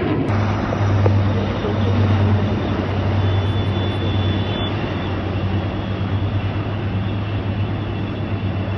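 Aircraft engine noise: a steady, loud rushing sound with a low hum underneath, without rising or fading.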